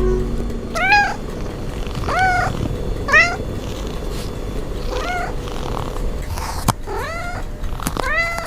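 A cat meowing, about six short meows that rise and fall in pitch, spaced a second or two apart, over a steady low rumbling haze, with a couple of sharp clicks late on.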